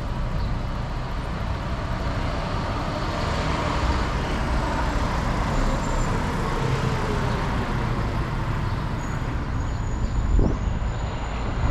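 Wind buffeting the microphone and road noise while riding a bicycle, a steady rushing rumble that swells a little in the middle.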